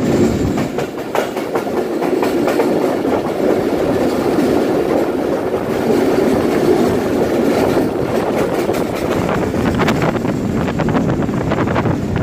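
Passenger train coach running at speed, heard from its open doorway: a steady rumble of the wheels on the rails, with rapid clickety-clack over the track that grows busier near the end.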